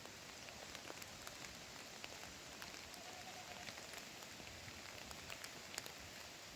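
Steady rain falling, with scattered sharp drips close by. A faint, brief high tone comes about three seconds in.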